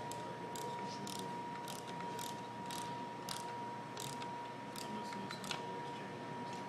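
Mechanical clicking from a Metabo magnetic drill's mechanism being worked by hand: irregular sharp clicks, roughly two a second, with a faint steady high tone underneath.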